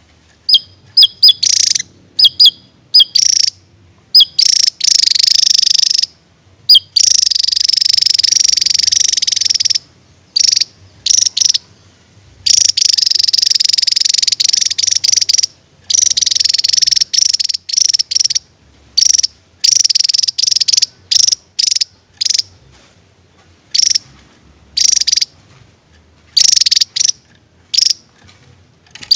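Javan tesia singing its rapid 'tembakan' burst song: loud, high-pitched sharp notes and rattling trills in quick bouts with short gaps between them. Some trills run on for three to five seconds.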